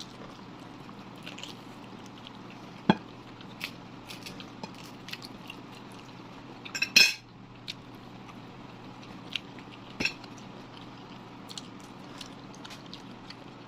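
Cutlery clinking and scraping against plates during a meal. There are scattered small ticks, a sharp knock about three seconds in, the loudest clatter about seven seconds in, and another about ten seconds in, over a steady low hum.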